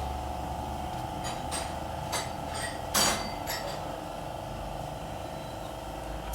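Metal tools striking and clinking on metal parts while a car's front wheel bearing is being changed: about six sharp ringing taps in the first four seconds, the loudest about three seconds in, over a steady hum.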